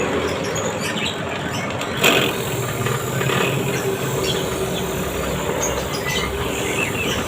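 Steady rubbing and scraping of a bird-cage base being sanded, over a continuous low hum, with a brief louder scrape about two seconds in.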